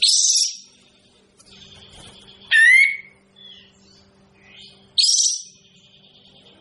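Kapas tembak bird calling: a harsh, scratchy burst, then about two and a half seconds in a clearer slurred note that drops and levels off, then another harsh burst about five seconds in. A faint steady hum lies underneath.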